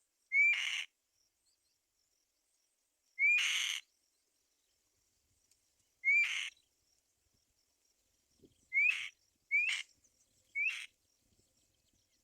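Black-winged kite calling six times. Each call is a short rising whistle that breaks into a harsh, rasping screech. The first three calls are spaced about three seconds apart, and the last three come quicker, about a second apart.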